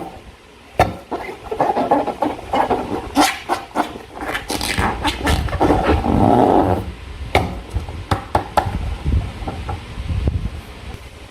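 Slime being squeezed and worked by hand, wet squelching in bursts with many small clicks and crackles.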